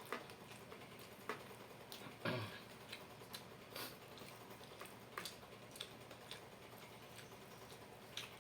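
Faint, irregular crunches and mouth clicks of someone chewing crispy fried chicken, a few sharp ticks scattered every second or so with a slightly longer crunch about two seconds in.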